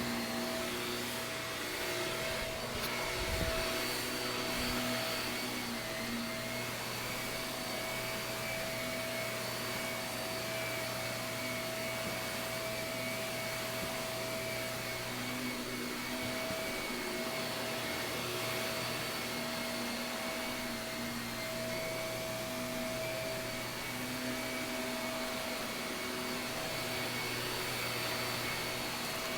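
Shark vacuum cleaner running steadily over carpet, its motor giving a steady whine, with one low thump about three seconds in.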